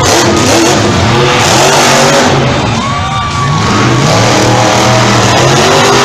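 Monster truck engines revving hard, the pitch rising and falling as they accelerate.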